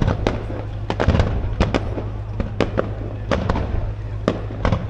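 Fireworks display going off: a rapid, irregular run of sharp bangs and crackles, about three or four a second, over a steady low rumble.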